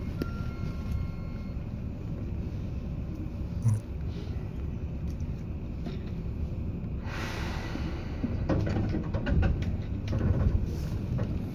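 Seibu 2000 series electric train running, heard from inside the car: a steady low rumble of wheels and running gear. A single knock comes about three and a half seconds in, a rush of noise about seven seconds in, and a run of sharp clicks near the end.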